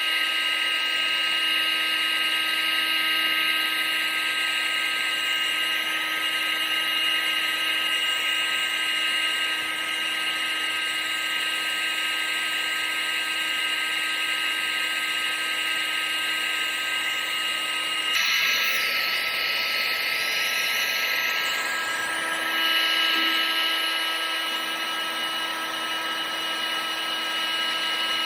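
Electric appliance motor and fan running steadily: a high-pitched whine of several fixed tones over rushing air. About two-thirds of the way through the sound shifts, with a sweeping tone for a few seconds before it steadies again.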